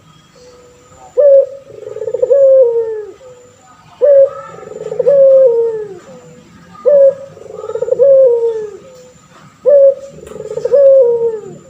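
Male puter pelung dove, a long-voiced Barbary dove variety, cooing four times: each call is a short sharp note followed by a longer coo that falls in pitch, repeated about every three seconds.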